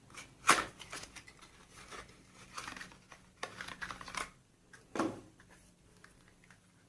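Hands handling a plastic cream tube and its packaging: scattered light clicks and rustles, with sharper clicks about half a second in and again about five seconds in.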